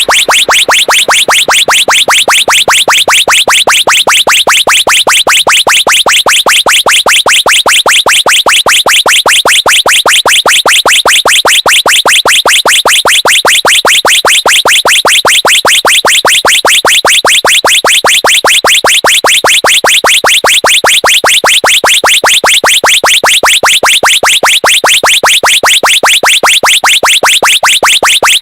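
Electronic bird-call horn chirping in a fast, even repeat of about five to six high-pitched chirps a second, loud and unbroken.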